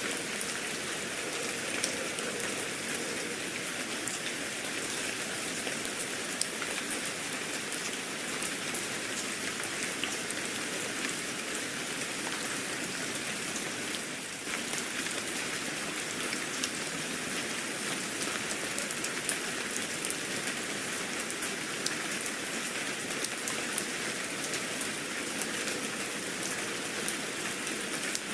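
Steady rain falling, with a constant hiss and many small drop ticks on a surface.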